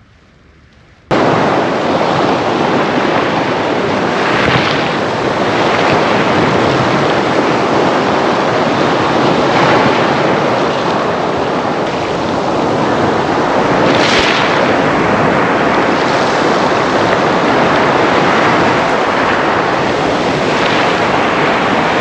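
Sea waves washing on the shore: steady surf noise that cuts in suddenly about a second in and swells every few seconds as waves break.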